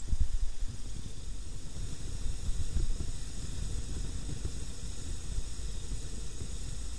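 Wind buffeting the microphone of a camera on a moving motorcycle: an uneven low rumble under a steady hiss of wind and road noise.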